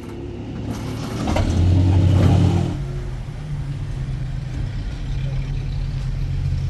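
A motor engine running steadily, with a louder swell for about a second and a half, a little over a second in.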